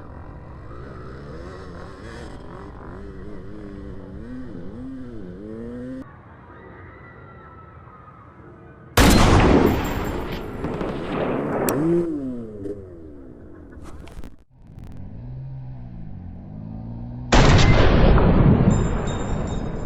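Dirt bike motor revving up and down, then two sudden loud blasts about nine and seventeen seconds in, each fading away over a couple of seconds.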